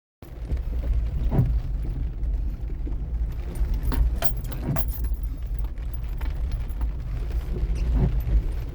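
Off-road vehicle crawling over a rough trail, heard on board: a steady low engine and drivetrain rumble with jingling and rattling, and a few knocks as it jolts over rocks.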